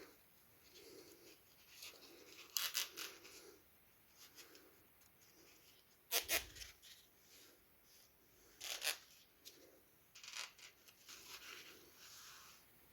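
Quiet handling sounds: scattered sharp clicks and taps, four of them louder than the rest, with soft rubbing between them. No engine is running.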